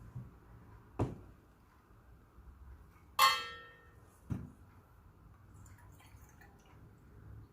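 Kitchenware being handled: a knock, then a loud ringing clink a little after three seconds in, like a hard metal or ceramic vessel being struck or set down, then another knock about a second later.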